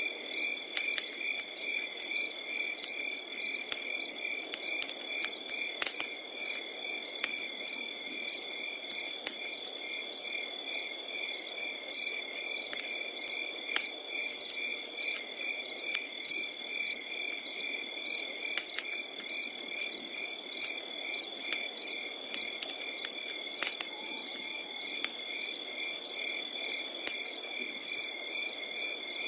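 Night insects chirping: a steady high trill with an even, rapid pulsing chirp of crickets over it. Scattered sharp crackles of burning wood and the low hiss of a campfire run underneath.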